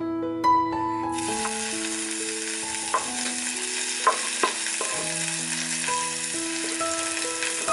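Chopped ginger and garlic sizzling in hot oil in a small nonstick saucepan, the hiss starting abruptly about a second in. A few sharp knocks near the middle as a wooden spatula pushes the ingredients off a wooden chopping board into the pan.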